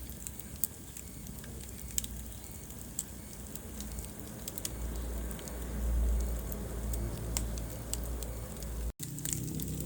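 Wood fire burning in a fireplace: irregular sharp crackles and pops over a low rumble of flames that swells about halfway through. The sound cuts out for an instant near the end.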